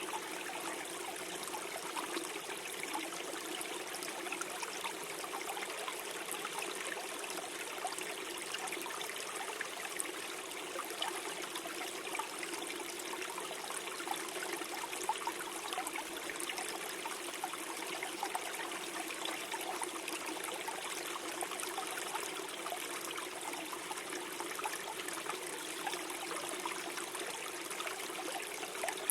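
A small stream flowing steadily over stones, a continuous gurgle and trickle with no lull.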